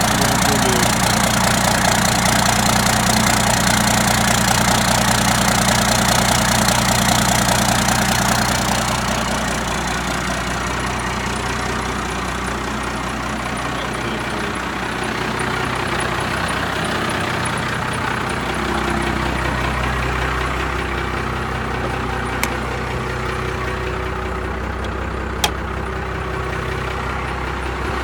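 1998 12-valve Cummins 5.9-litre inline-six diesel idling steadily, warming up just after a cold start. About nine seconds in the overall sound drops and the hiss falls away, leaving the low steady engine note. Two sharp clicks come near the end.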